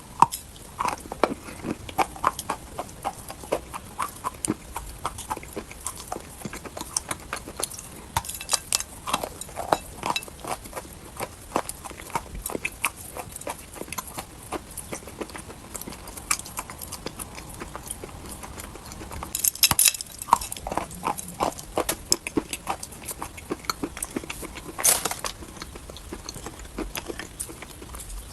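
Dry chalk being bitten and chewed: irregular crisp crunches, several a second, with louder spells of crunching about twenty and twenty-five seconds in.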